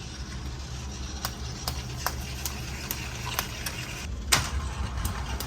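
Battery-powered Plarail toy train running along plastic track: a steady low motor hum with regular clicks, two or three a second, as the wheels pass the track joints, and a louder knock about four seconds in.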